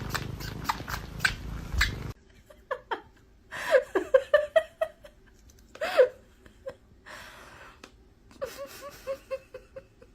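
A cat making short meows and chirps that bend in pitch, in a cluster, then a single call, then a quick run of short even calls. Light clicking comes first, for about two seconds.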